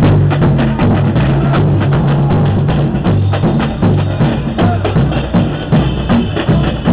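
Drum section of a football supporters' group playing a fast samba-style percussion rhythm, with low bass drums under a dense pattern of sharper hits.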